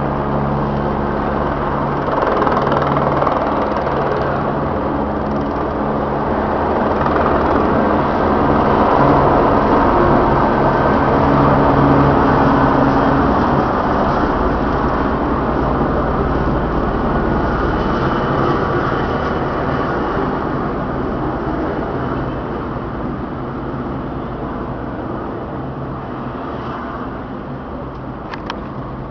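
Helicopter running, a steady engine and rotor noise with a low hum, growing louder to a peak about halfway through and then slowly fading.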